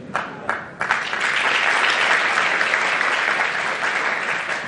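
Audience applauding: a few scattered claps, then full applause from about a second in.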